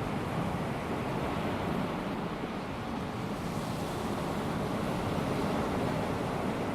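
Calm sea: small waves washing onto the beach with a steady hiss of surf, swelling slightly about halfway through.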